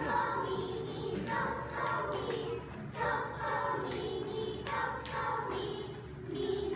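A class of young children singing a short two-note melody together on the solfège syllables sol and mi.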